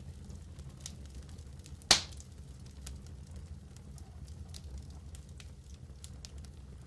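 Wood fire in a fireplace crackling, with scattered small snaps over a low steady rumble. One loud, sharp pop about two seconds in.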